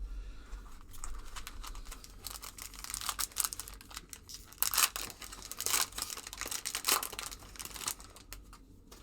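A trading-card pack wrapper being torn open and crinkled by hand, a run of irregular crackles, loudest a little past the middle, that dies down near the end.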